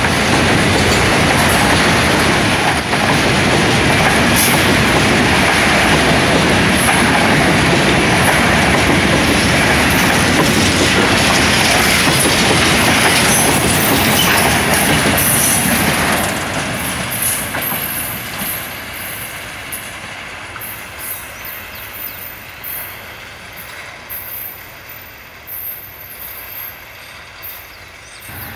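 Freight cars of a long train rolling past close by, a loud steady noise of wheels on rail. About sixteen seconds in, the end of the train passes and the sound fades away as it rolls off into the distance.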